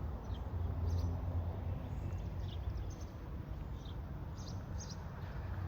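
Outdoor background: a steady low rumble with faint short high chirps, like small birds, several times.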